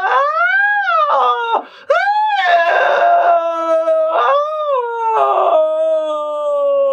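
A singer's voice holding one vowel and sliding up and down in pitch, cracking between registers several times with brief rough patches. It is a vocal exercise for moving quickly between high and low notes.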